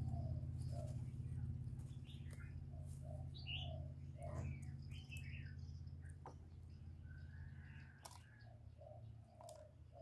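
Faint bird calls: scattered short high chirps and soft short low notes, over a steady low hum that slowly fades.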